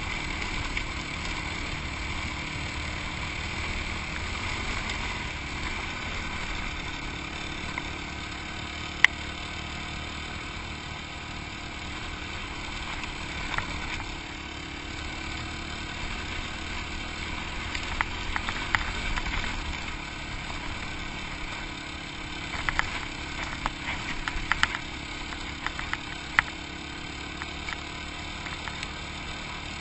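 Yamaha WR250X's single-cylinder four-stroke engine running steadily, with scattered sharp clicks and knocks, several of them bunched together in the second half.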